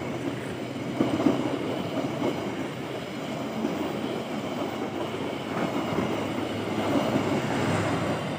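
A passenger train's coaches passing at speed, with a steady rumble and clatter of steel wheels on the rails. The sound eases off near the end as the last coach goes by.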